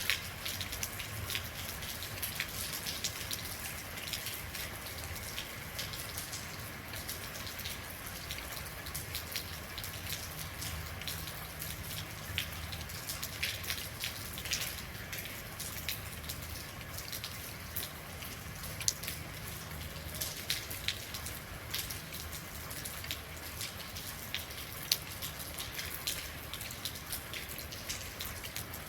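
Real rain falling, a steady patter with many separate drops ticking irregularly on a hard surface.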